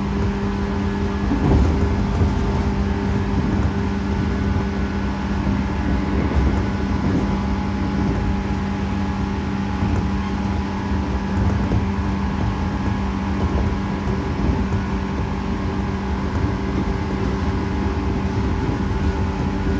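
JR 115 series electric train running at steady speed, heard from inside the carriage: a constant rumble of wheels on rail with a steady hum on top, and one brief louder knock about a second and a half in.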